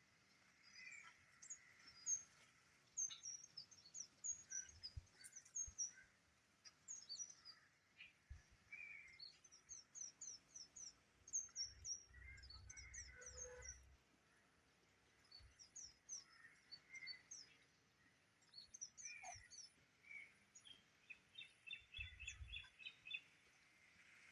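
Small birds chirping faintly, many short, quick high chirps in scattered runs, with a faster run of chirps near the end.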